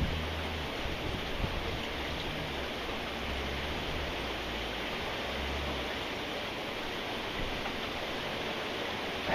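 Steady rain falling, an even hiss, with a low rumble coming and going underneath through the first six seconds or so.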